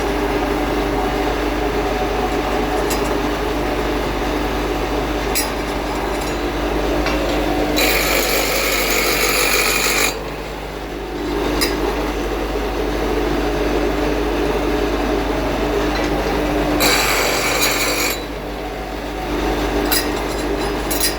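A motor running steadily with a low hum and a few light clicks. Twice it is broken by a loud hiss lasting about two seconds, once about eight seconds in and again about seventeen seconds in.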